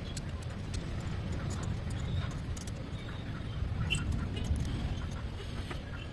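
Scattered light clicks and taps of hand tools and metal engine parts being handled, over a steady low rumble.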